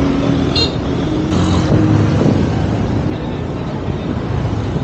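Motor vehicle running, heard as a loud, even rush of road and engine noise.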